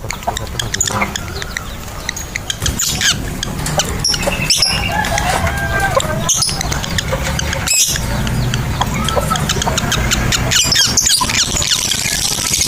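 Lovebirds chirping and shrieking in short, sharp, repeated calls over a steady low hum.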